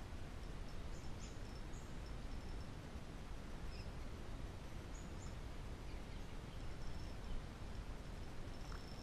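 Faint, short, high bird chirps, a few about a second in and more around five seconds, over a steady low outdoor background noise.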